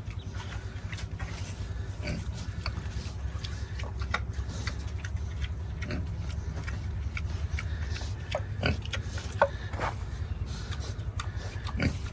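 Pigs grunting, with scattered short grunts and knocks, the strongest near the end, over a steady low hum.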